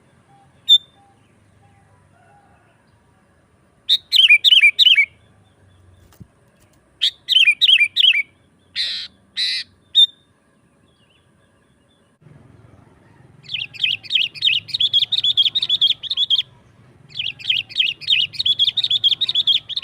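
Sooty-headed bulbul (kutilang) singing: two short bubbly phrases of a few quick falling notes, a pair of short harsh notes, then two long runs of rapid chattering notes in the second half.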